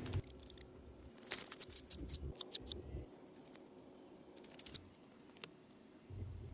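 A quick run of about a dozen sharp, crisp snips or clicks between one and three seconds in, followed by a couple of single ticks.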